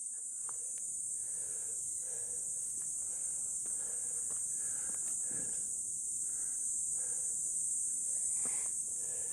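A steady, high-pitched chorus of insects in tropical forest, with soft footsteps on a trail underneath.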